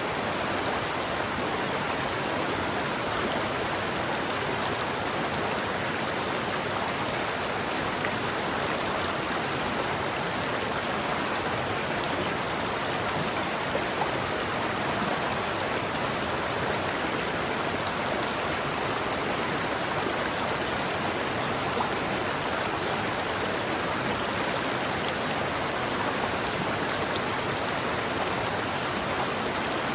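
River water flowing steadily over rocks: an even rushing and babbling with a few faint splashes.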